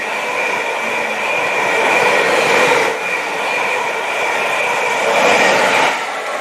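Greater Anglia electric multiple unit passing at speed: a steady loud rush of wheels on rail, with a high steady whine running through it.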